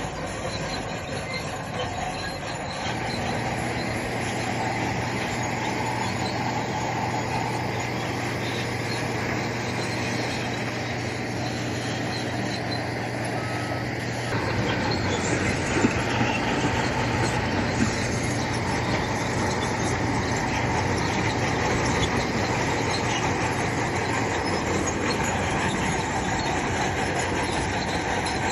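Crawler bulldozer working under load: the diesel engine runs at a steady note while the steel tracks squeal and clatter. It grows louder about halfway through.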